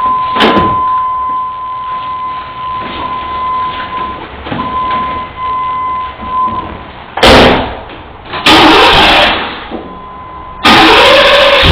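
1992 Camaro RS being started: a steady electronic warning chime sounds, then turns into short beeps, followed by two brief loud noisy bursts. About 11 seconds in, the engine fires and runs loudly through its Flowmaster exhaust.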